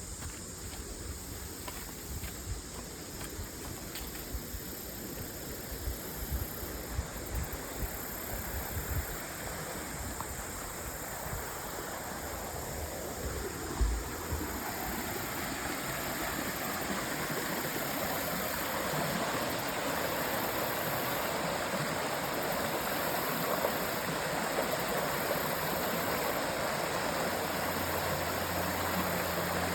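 Creek water rushing and splashing in a steady wash of noise that grows louder through the middle of the stretch, with scattered low thumps in the first half and one sharper knock about halfway through.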